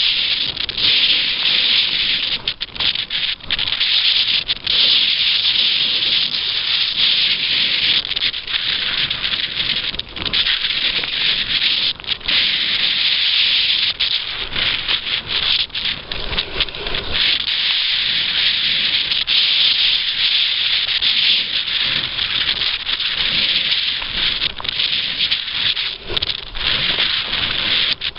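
Steady, loud rushing hiss of wind and water noise while the boat is under way, with brief dips now and then.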